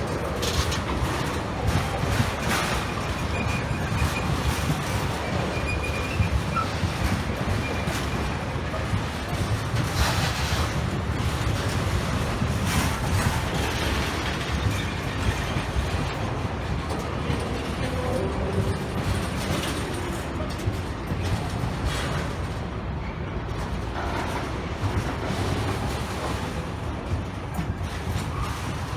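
A train running past: a steady heavy rumble with scattered sharp clicks from the wheels on the track and a faint high squeal now and then.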